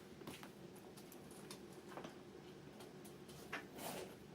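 Faint, scattered light clicks and taps, with a slightly sharper click about three and a half seconds in; otherwise quiet room.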